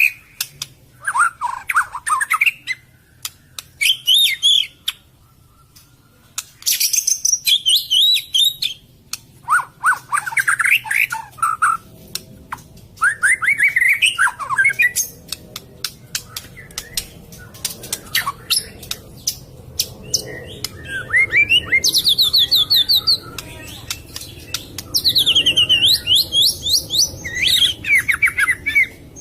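White-rumped shama (murai batu) singing: loud phrases of gliding whistles and fast rippling trills, each a second or two long, with short pauses between them.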